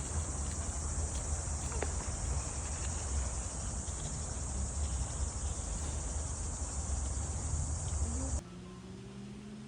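A steady chorus of insects: a continuous high buzz over a low rumble, which cuts off suddenly a little over eight seconds in. A quieter low hum with faint steady tones follows.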